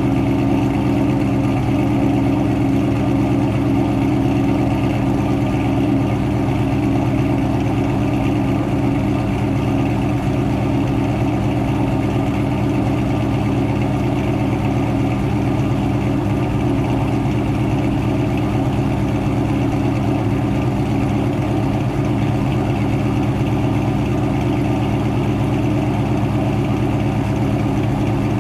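Ford Mustang GT's 4.6-litre 2-valve V8, fitted with aftermarket cams, headers, an X-pipe and SLP LM1 mufflers, idling steadily through the exhaust while warming up from a cold start.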